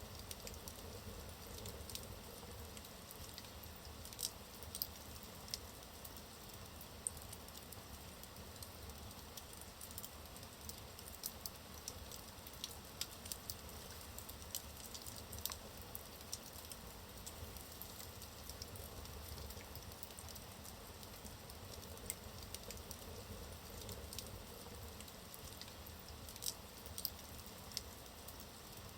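Wood fire in a fireplace burning steadily, with scattered sharp crackles and pops from the logs over a low rushing hiss.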